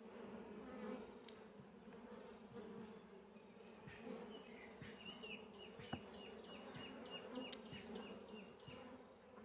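Honeybees buzzing around an opened hive as frames are handled, a faint steady hum. Partway through, a run of short high chirps repeats about four times a second, and there is one sharp tick about six seconds in.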